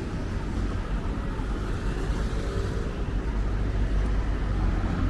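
City street traffic: cars running by as a steady low rumble.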